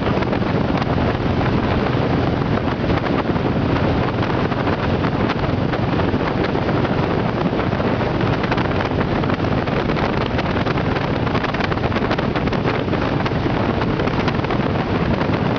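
Motorboat running steadily at speed, with strong wind noise on the microphone over the engine and water.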